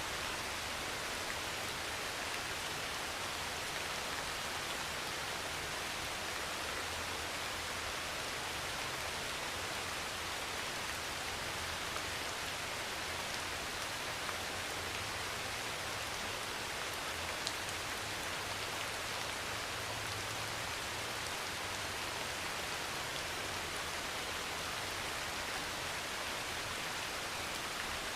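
Heavy rain pouring steadily onto a metal roof, an even hiss with a few sharper drop ticks.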